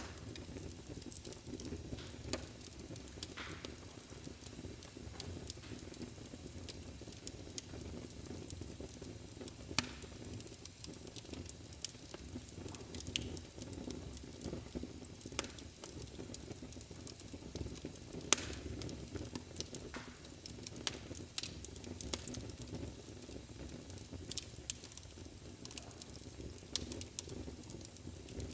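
Wood fire burning in a fireplace: a steady low rumble of flames with frequent sharp crackles and pops, a few louder snaps standing out.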